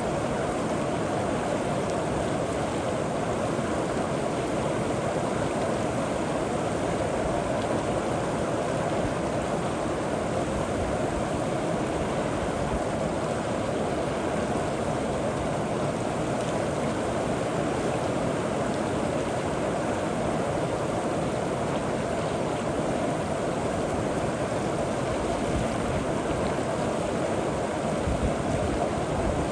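River water flowing over rocks, a steady rushing and gurgling that holds even throughout.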